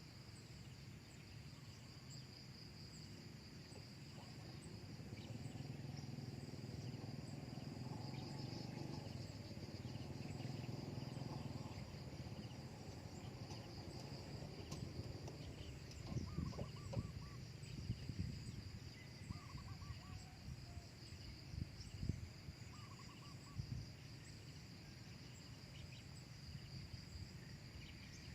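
Insects chirring steadily in a high, unbroken tone, over a low outdoor rumble, with a few short faint bird notes after the midpoint.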